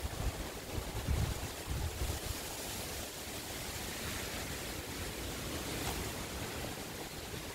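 Strong wind rushing through the garden's trees and foliage, buffeting the microphone in low rumbles during the first couple of seconds, then settling into a steady rushing hiss.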